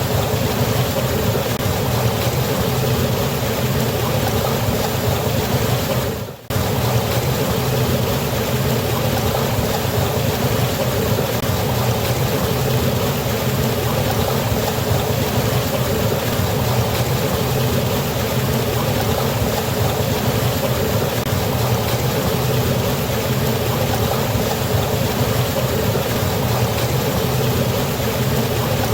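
Waterfall, a steady, even rush of falling water. The sound briefly drops away and comes straight back about six seconds in.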